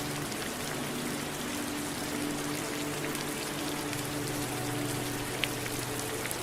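Steady rain: an even hiss of falling rain with scattered individual drops ticking, and one sharper drip about five seconds in. A few soft, low, held tones run beneath it.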